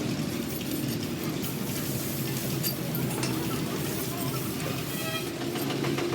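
Steady drone of vehicle engines, with a few light clicks and a short horn toot about five seconds in.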